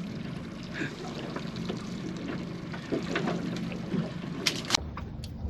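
Water sloshing and trickling around a small fishing boat at sea, with scattered small knocks and clicks. Two sharp clicks come near the end, then the sound changes abruptly to a low rumble.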